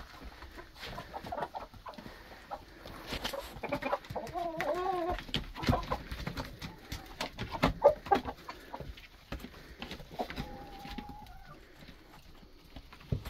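Roosters and hens clucking and calling, with scattered knocks and scuffs. There is a wavering call about four seconds in and a longer, steady call about ten seconds in.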